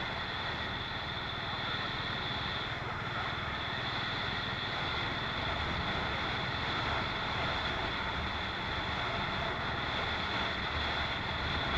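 Steady road and wind noise from a motorcycle riding along the highway, with a constant high tone in the background.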